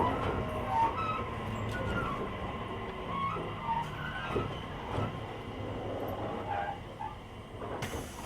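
JR Kyushu 885 series electric train (Hitachi-equipped motor car) running and slowing toward its terminal stop, heard from the vestibule deck: a steady rumble of wheels and running gear with short sliding motor tones and occasional knocks, growing gradually quieter.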